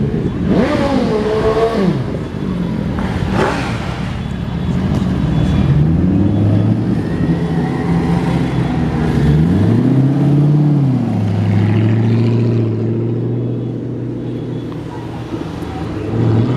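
Moto Guzzi motorcycle engine riding at low speed. Its pitch rises and falls several times as it pulls and shifts, then holds steady for a few seconds before rising again near the end.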